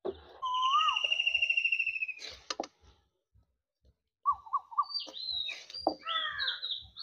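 Songbirds calling: a long, rapid trill in the first two seconds, then a run of short chirps and falling whistled calls through the last three seconds. A few sharp clicks come about two and a half seconds in.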